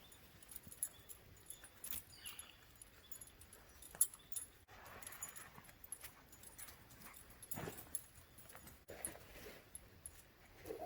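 A dog whining softly, with scattered light clicks and short rustles.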